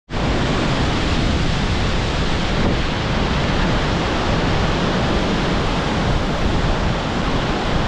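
Steady rush of floodwater pouring from a dam's spillway, with three gates open and the water falling fast.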